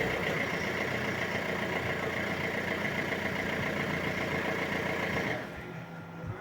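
Car engine running steadily just after being started, then stopping about five seconds in.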